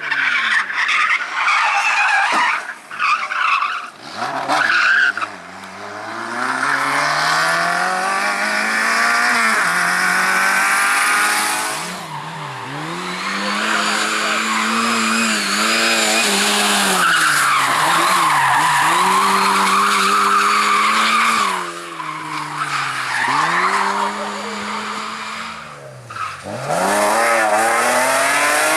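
Competition car engine revving hard, its pitch climbing and falling back several times as the car accelerates, lifts and shifts gear, with tyres skidding and squealing. The engine drops off sharply about twelve seconds in and again near the end before pulling back up.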